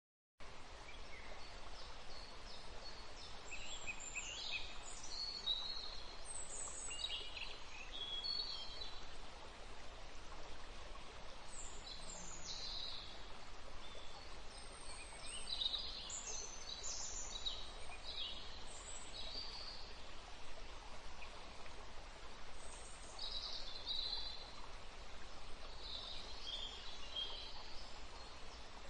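Birds chirping in short, scattered calls over a steady soft hiss of background noise.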